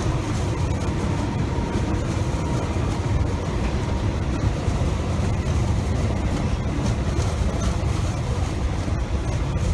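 A long rake of Hanson JHA hopper wagons rolling past: a steady noise of steel wheels running on the rails, with faint clicks over the rail joints.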